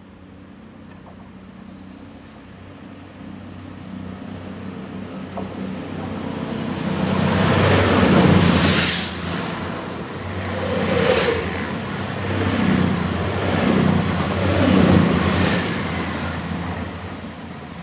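CrossCountry Voyager diesel multiple unit approaching and passing close by, its underfloor diesel engines humming and its wheels rumbling on the rails. The sound builds to a peak about eight seconds in, then rises and falls several times as the carriages go by, and fades near the end.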